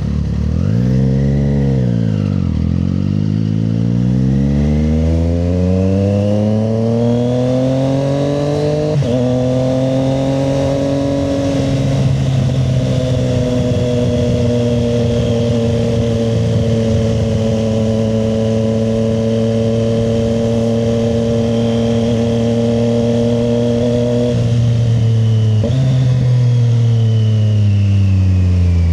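Triumph Street Triple 765 RS's three-cylinder engine under way. Revs dip about two seconds in, then climb steadily to a gear change about a third of the way through. The engine then holds a steady pitch at cruising speed. Near the end the revs rise, jump up briefly, then fall away as the bike slows.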